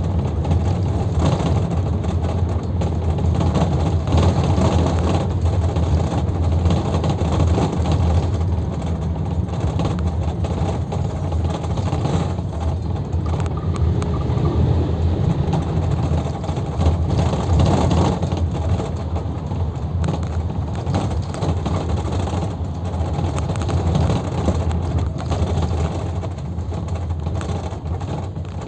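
Luidor 2250DS bus on the move, heard from inside the cabin: a steady low engine drone mixed with road and tyre noise.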